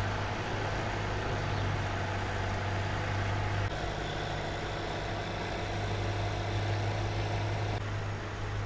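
Brabus 650's 4.0-litre twin-turbo V8 idling steadily with a deep, even hum.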